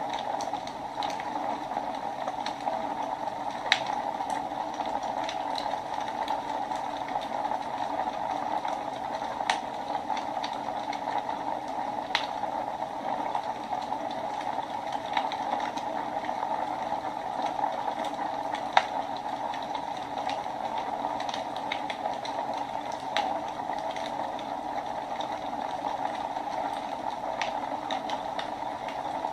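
Wood fire burning in a fireplace: a steady rushing of the flames with irregular sharp crackles and pops, a few of them louder.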